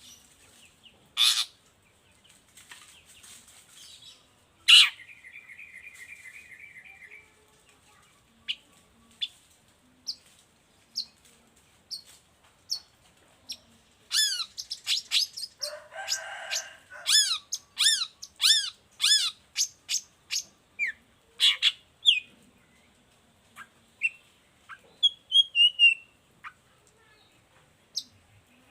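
Long-tailed shrike (cendet) singing a varied song: loud harsh single calls, a buzzy trill a few seconds in, then a quick run of repeated sharp downslurred chirps, about two a second, in the second half.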